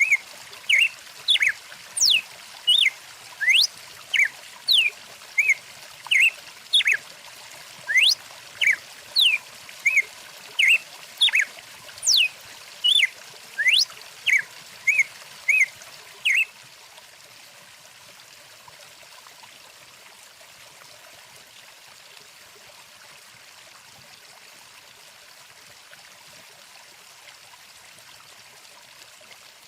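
A songbird calling in a rapid series of short chirps and quick upward-sweeping whistles, over the steady rush of a flowing stream. The bird notes stop suddenly a little over halfway through, leaving only the stream.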